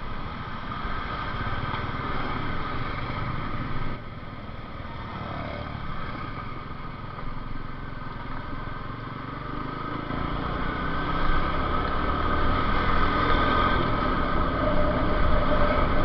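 Motorcycle engine running while riding, mixed with wind noise on the helmet microphone. It grows louder in the second half, as the bike picks up speed.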